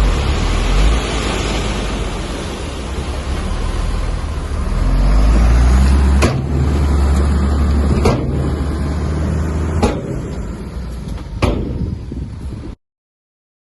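A heavy diesel earthmoving machine running, its low engine rumble loud and dense. Four sharp knocks come about two seconds apart in the second half. The sound cuts off suddenly near the end.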